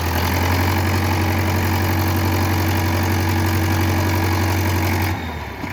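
Tractor engine running at high, steady revs under load as the tractor strains to pull a stuck wheel free. It eases off about five seconds in.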